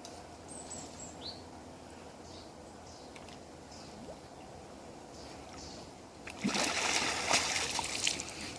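Faint bird chirps, then about six seconds in a loud splashing of water lasting about two seconds.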